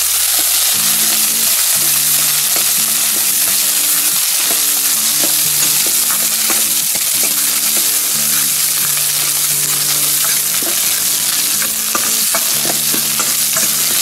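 Small onions, garlic and dry red chillies sizzling in hot oil in a stainless steel kadai while being stirred, the spoon clicking and scraping against the metal many times over a steady frying hiss. The onions are being sautéed until soft.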